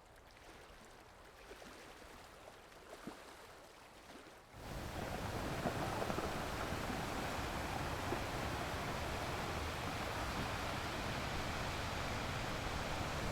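Faint running water with a few small splashes, then about four and a half seconds in a sudden switch to a much louder, steady wash of ocean surf.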